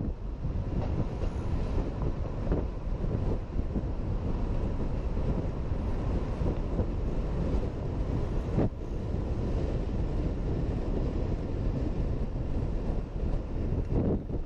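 Motor scooter on the move, heard from a rider-mounted camera: a steady rumble of engine, road and wind noise. One brief knock comes a little past halfway through.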